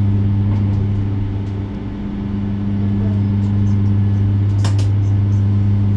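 Steady low hum inside a moving electric bus, with a brief dip about two seconds in and a single click near the end.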